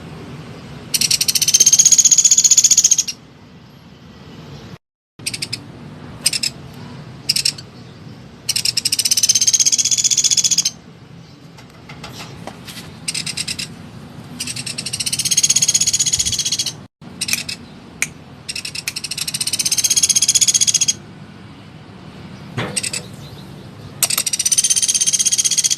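Small woodpecker (pelatuk) giving loud, rapid high-pitched trills about two seconds long, five times, with short sharp call notes in between.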